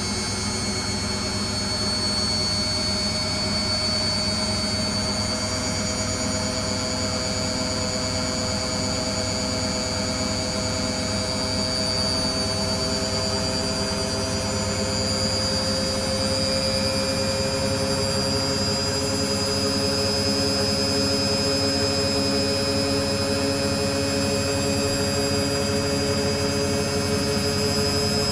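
Beko WTG620M1 washing machine running a spin, a steady motor and drum whine whose pitch drifts slowly over the whole stretch.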